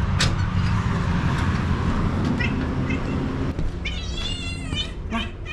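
Cat meowing: a couple of short high calls, then one long wavering high-pitched meow about four seconds in, over a steady low rumble.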